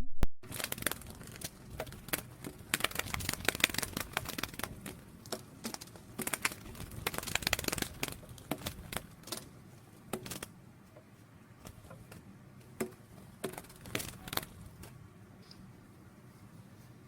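Irregular crackling and rustling with many sharp clicks, busiest in the first half and thinning out after about ten seconds.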